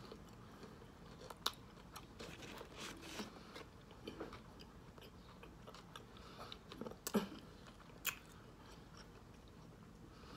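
Close-up chewing of a chicken sandwich with Cheetos on the bun: soft crunching and wet mouth clicks, with a few sharper crunches or smacks about a second and a half in and again around seven and eight seconds in.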